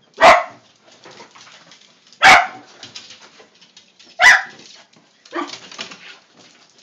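A dog barking: three loud single barks about two seconds apart, then a quieter bark near the end.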